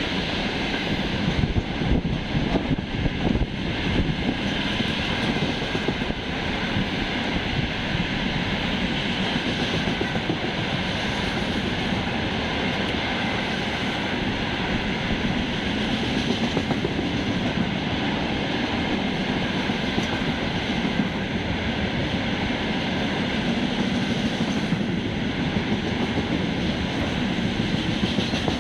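Train running past at close range: a steady, loud rumble of wheels on the rails, with knocks of wheels over rail joints, most distinct in the first few seconds.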